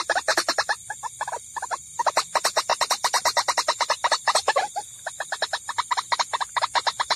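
White-breasted waterhen (ruak-ruak) calls played as a trapping lure: a fast, even run of short notes, about eight or nine a second, thinning briefly about a second in and again near five seconds.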